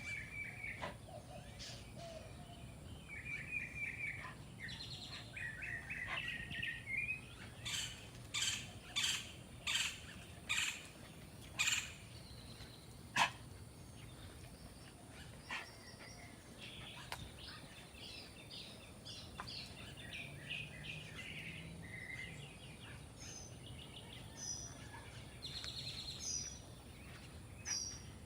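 Birds chirping and calling, with short trills and repeated chirps throughout. About eight to thirteen seconds in, a run of sharp, loud clicks stands out over the birdsong.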